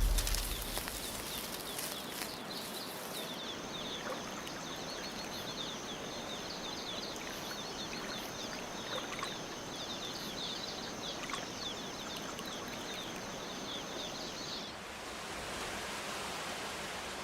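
Rainforest ambience: a steady high tone with many quick chirps over it, of insects, frogs or birds. About 15 seconds in it cuts to an even hiss like running water.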